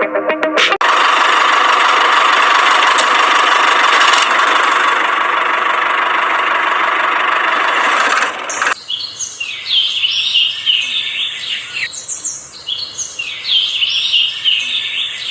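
A steady, even rushing noise for about eight seconds that stops abruptly, followed by birds chirping repeatedly.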